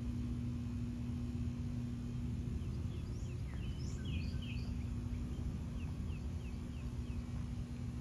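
A run of short, quick high chirps from a bird, the last several falling in pitch, over a steady low hum and rumble of a vehicle engine running.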